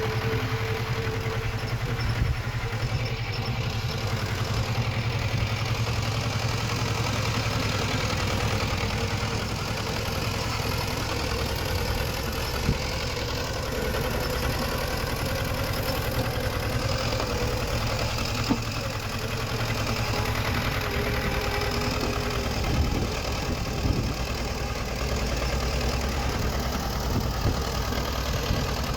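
Heavy diesel engine of earthmoving machinery running steadily, with a few sharp metallic knocks scattered through it.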